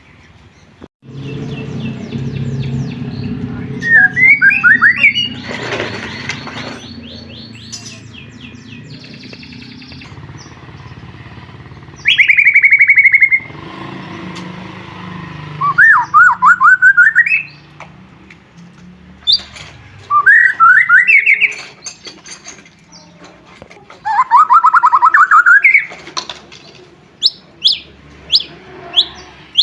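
White-rumped shama singing. It gives loud phrases of rapid repeated whistled notes every few seconds, and near the end a quick run of short, sharp notes.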